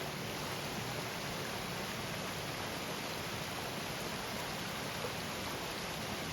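River water flowing steadily: an even, unbroken rushing sound.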